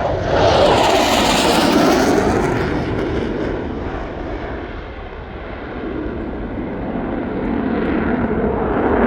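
Fixed-wing aircraft engine noise from a loud flypast: it swells sharply at the start, eases off in the middle and builds again toward the end.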